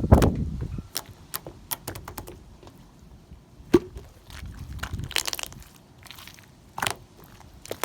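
Cloud slime being squeezed and pulled by hand: a heavy squish at the start, then scattered soft crackles and pops as the fluffy slime stretches and tears.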